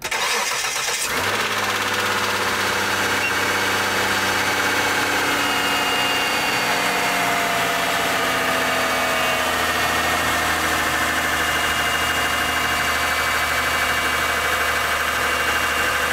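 Cold start of a Mitsubishi 6A13 2.5-litre 24-valve V6. The starter cranks for about a second, then the engine catches and runs at a steady idle. There is no hydraulic lifter knock, the sign that the newly replaced lifters are working.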